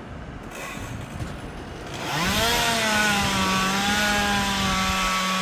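Chainsaw revving up sharply about two seconds in, then held at a steady high pitch at full throttle, as in cutting through a tree limb.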